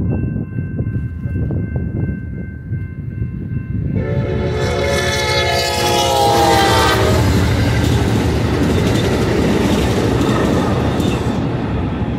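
Grade-crossing warning bell ringing with steady tones. About four seconds in, an Amtrak California passenger train blows its horn for about three seconds, the horn's pitch dropping slightly as the train reaches the crossing. Then comes the loud, steady noise of the train's wheels on the rails as it passes, fading near the end.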